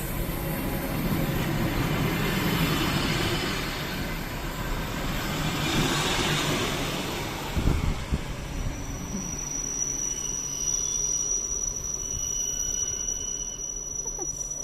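Train rolling past on the rails: a loud rumble of wheels on track that slowly fades, with a single knock about halfway. From about halfway a thin, high, steady whine holds to the end.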